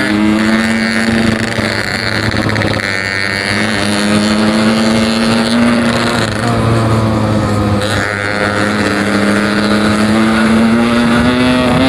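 Yamaha RX-King two-stroke single-cylinder engine pulling under acceleration while riding, its pitch climbing slowly, with a short break about eight seconds in before it climbs again. The rider says the engine pulls badly at low revs and cannot rise straight away, which he puts down to the carburettor's low-end setting being off.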